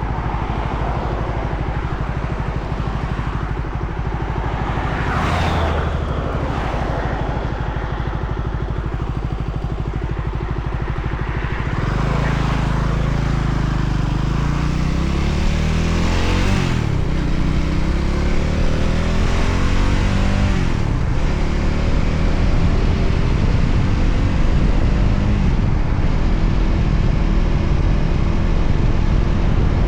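Voge 300ACX motorcycle's single-cylinder engine running on the road. About twelve seconds in it grows louder, and its pitch rises in steps as it accelerates through the gears. A few short whooshes pass by along the way.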